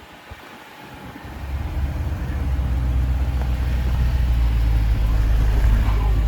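A vehicle engine running with a low, steady rumble that swells up about a second and a half in and stays loud.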